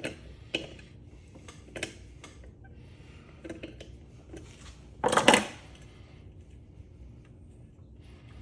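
Metal parts of a ceiling fan and hand tools clinking and knocking as the fan is taken apart: a few scattered sharp clicks, then one louder clatter lasting about half a second about five seconds in.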